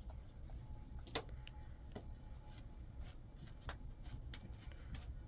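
Scattered light clicks and taps at an uneven pace, the sharpest about a second in, over a steady low rumble.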